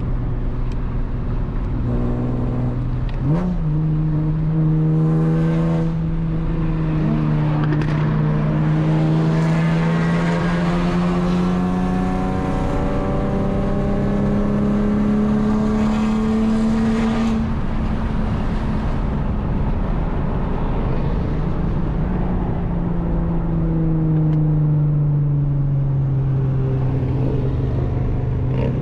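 Nissan 370Z's 3.7-litre V6 through a full Tomei exhaust, accelerating: a quick rev rise about three seconds in, then a long, steady climb in engine pitch for about fourteen seconds. After that the driver eases off and it settles to a lower, steady cruise.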